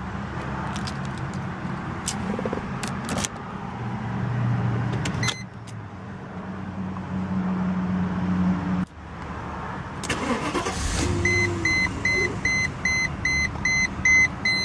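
1997 Mercedes-Benz S500's V8 idling with a steady low hum. From about eleven seconds in, an electronic warning chime starts beeping about twice a second over it.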